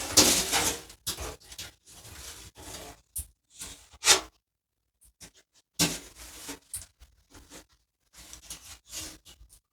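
Handling noises: a run of irregular rustles, scrapes and knocks of objects being moved about, loudest at the start and about four seconds in.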